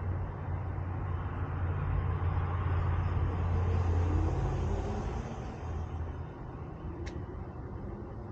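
A road vehicle passing by: a low engine rumble swells to its loudest about four seconds in, then fades away. A short sharp click comes near the end.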